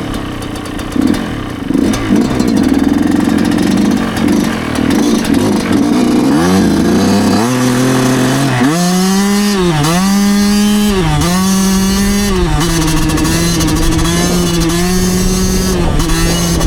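2009 Yamaha YZ125 two-stroke single-cylinder dirt bike engine under way. It runs at low, uneven revs at first, then revs climb in steps with two brief dips. It settles into a steady high-revving run for the last few seconds.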